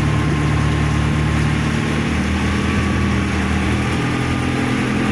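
Boat engine running steadily at an even speed, with a constant hiss of noise over it.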